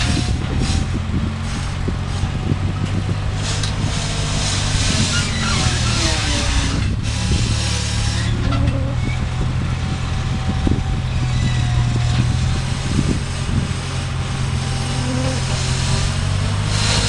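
Gehl 4400 skid steer's engine running steadily under load, with crackling and snapping of wood and brush as the machine pushes a tree out.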